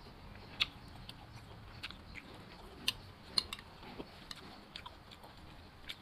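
Close-up chewing and mouth sounds of someone eating rice and vegetable stew, with a few sharp clicks of a metal spoon against a small rice bowl, the loudest about half a second in and around three seconds in.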